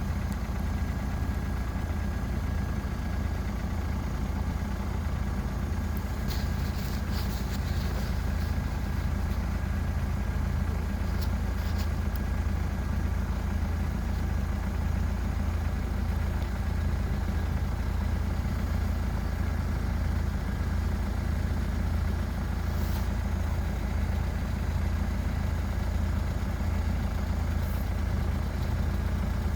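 An engine idling steadily with a constant low hum, and a few faint clicks now and then.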